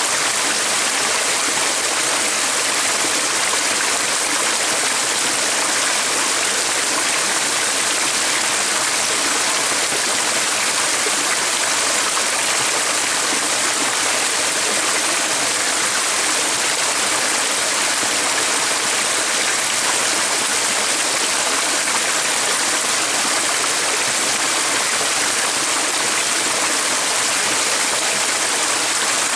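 A stream's running water rushing steadily without a break.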